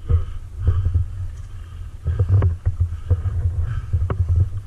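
Low rumbling handling and wind noise on a body-worn camera's microphone, coming in uneven pulses as the wearer moves, with scattered sharp clicks and knocks.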